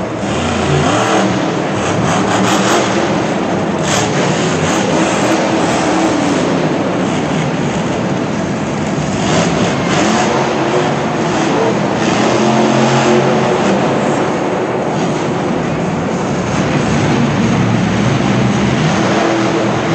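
Monster truck engine running loud and revving, its pitch rising and falling over a dense wash of noise.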